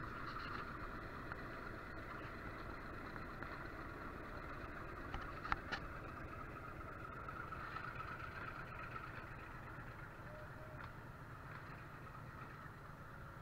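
Metre-gauge passenger train rolling past behind a YDM4 diesel locomotive: a steady rumble that slowly fades as the locomotive pulls away. A few sharp clicks about five and a half seconds in.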